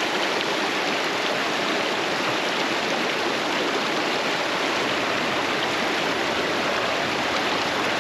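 Creek water rushing steadily over rocks, a loud, even flow close to the microphone.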